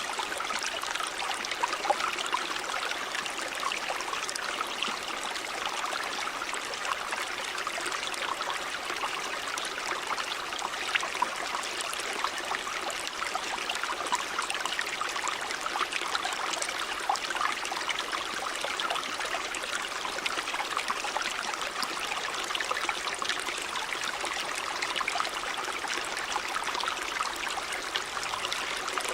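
River water running over stones: a steady rush with small, quick splashes and gurgles throughout.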